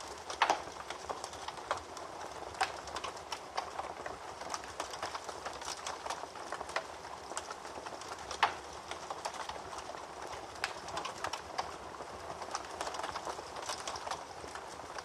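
Wood fire crackling in a fireplace: a steady run of small crackles with a few louder pops, the sharpest about half a second in, another near three seconds and one near eight seconds.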